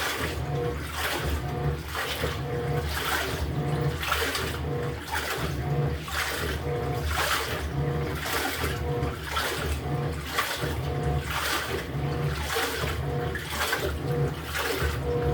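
LG top-loading washer agitating its wash load: the pulsator turns back and forth, churning the water in an even rhythm of swishes about one and a half a second, with a short motor hum on each stroke.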